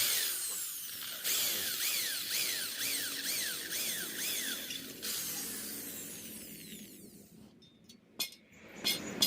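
Power drill boring through the metal of a motorcycle exhaust's catalytic converter. Its pitch rises and falls again and again as the bit works through the metal, then it winds down about seven seconds in. A few sharp clicks come near the end.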